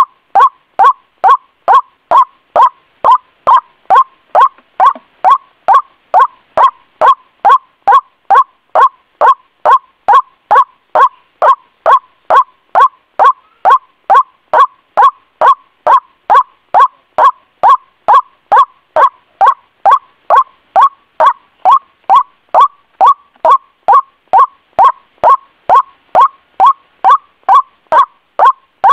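White-breasted waterhen (ruak-ruak) calling, a loud short note near 1 kHz repeated evenly about twice a second without a break: a bird-lure (pikat) call recording played to attract waterhens.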